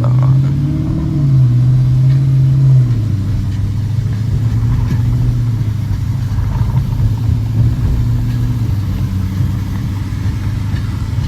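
Dodge Challenger R/T's V8 engine running under way, its note rising and falling over the first few seconds, then settling to a steady lower drone.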